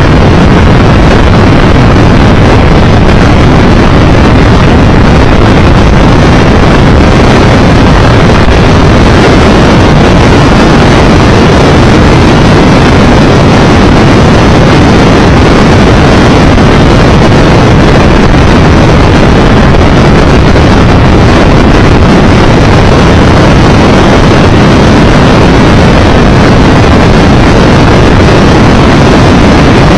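Loud, steady wind rush over the microphone from a Triumph 1200 Tiger Explorer motorcycle riding at road speed, with engine and road noise underneath.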